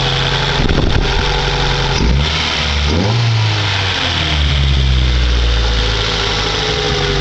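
1999 Honda Civic coupe's four-cylinder engine running through an open header, loud with a raspy hiss over the hum; its speed rises and falls a few times between about two and seven seconds in before settling back.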